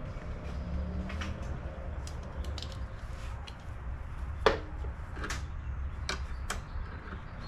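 Scattered light clicks and taps of hand tools and parts being handled while a lawn mower's carburetor is being removed, with one sharp, louder click about four and a half seconds in, over a low steady rumble.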